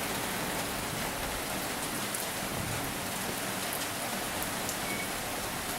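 Steady rain falling, an even hiss, with a few faint sharper hits of single drops.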